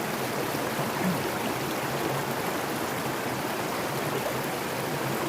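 Mountain stream flowing with a steady rushing of water.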